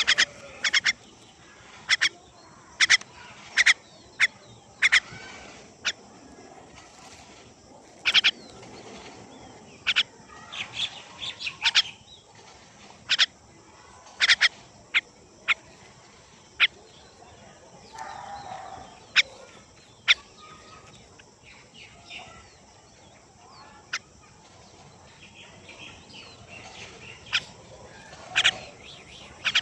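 Small bird chirping: short, sharp, high chirps at irregular intervals, sometimes in quick clusters of two or three.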